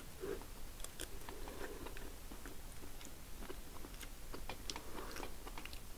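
A person chewing a mouthful of food, with a few faint clicks of a metal spoon against a ceramic bowl.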